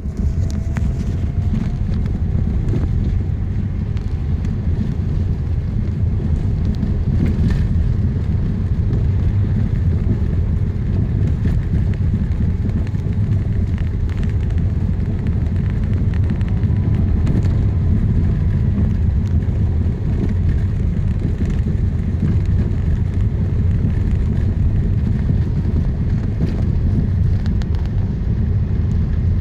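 Lada Vesta Cross driving over a rough road: steady low road and tyre rumble with a few faint knocks scattered through it. The knocks are the new car's suspension knock.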